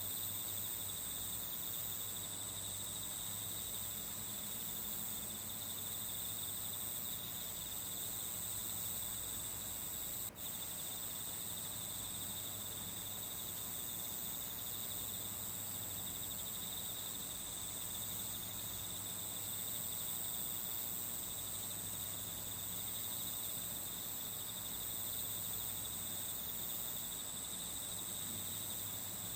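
Steady chorus of crickets, a continuous high-pitched trilling that never pauses, with a brief dropout about ten seconds in.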